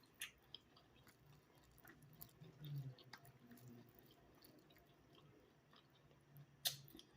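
Faint close-up chewing of seafood-boil food, with soft wet mouth clicks scattered throughout and one sharper click near the end.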